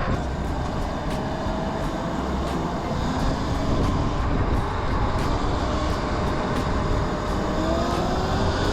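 Wind rumbling over the microphone while riding an electric dirt bike, with the faint whine of the electric motor gliding up in pitch, most clearly near the end as it speeds up.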